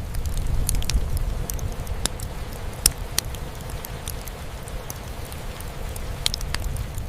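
Wood fire crackling, with sharp pops scattered irregularly, the loudest about three seconds in, over a steady low rumble and hiss of rain falling on a roof.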